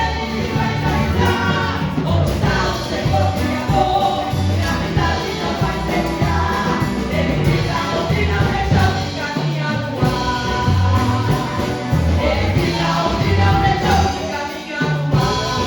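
Gospel song sung by two women's voices over a band with a steady beat.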